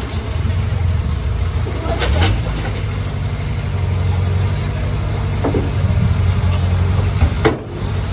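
Komatsu D20P bulldozer's diesel engine running steadily, with a few sharp metallic clanks from the tracks or stone.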